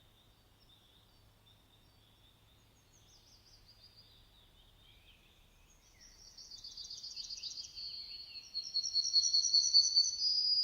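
Songbirds singing: faint high chirps at first, then from about halfway a louder run of rapid trilled phrases that grows loudest near the end.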